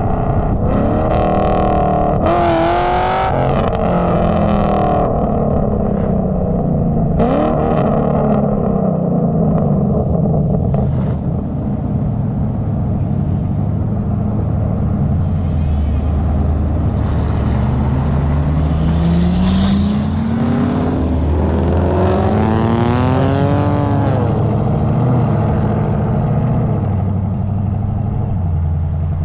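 A car engine accelerating hard: its pitch climbs steadily and then drops sharply at gear changes, with a long pull in the second half that rises for about eight seconds before a shift.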